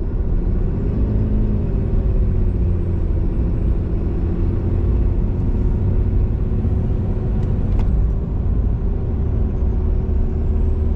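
Cummins turbo-diesel pickup pulling uphill under load, heard from inside the cab: a steady deep engine rumble with a thin, high turbo whistle over it. The whistle rises in pitch over the first several seconds and then eases back down. It is made audible by the open Banks Ram-Air intake, where the stock intake left the turbo unheard.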